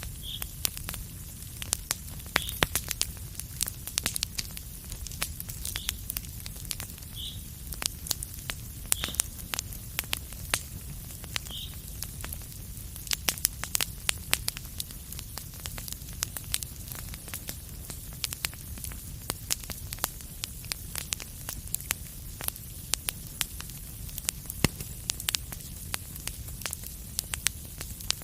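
Wood fire burning in a fireplace: dense, irregular crackles and pops over a steady low rumble and hiss, with a few short high-pitched squeaks in the first half.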